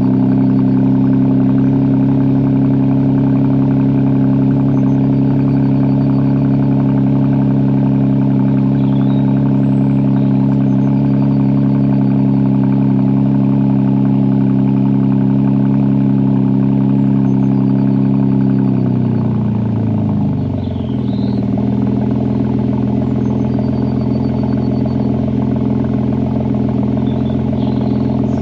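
BMW M3 G80's twin-turbo S58 inline-six idling on a cold start through a Milltek exhaust with its valves open. The raised cold-start idle runs steady, then settles down to a lower idle speed about nineteen seconds in.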